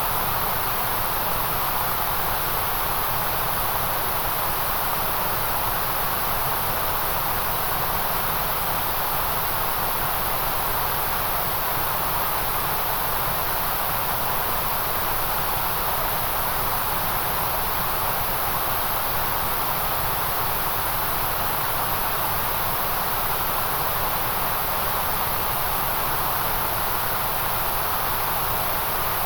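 Steady, unchanging white noise: an even hiss with no tones, clicks or rhythm.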